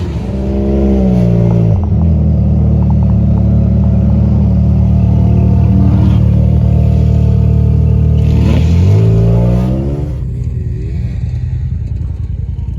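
Race truck engine under hard throttle: the pitch climbs over the first couple of seconds and holds high and steady, then falls off about nine seconds in as the throttle is lifted, leaving a lower, rougher drone.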